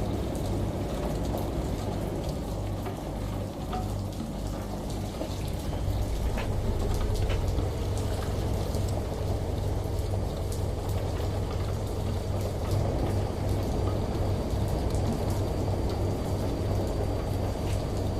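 Steady rain with scattered drops pattering, layered over the low, steady hum of a running washing machine. It gets a little louder about six seconds in.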